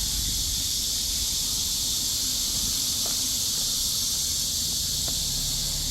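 Steady high-pitched chorus of summer insects, with a low rumble underneath.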